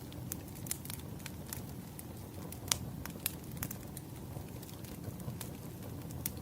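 Wood fire burning: a steady low rumble with sharp, irregular crackles and pops of the firewood, two louder pops a little before the middle.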